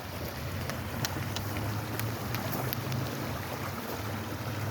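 Steady rushing of a flowing waterway, with a low rumble underneath and a few faint ticks.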